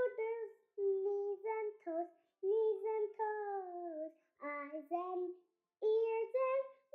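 A child singing a string of short melodic phrases, some held notes gliding downward, with brief pauses between them.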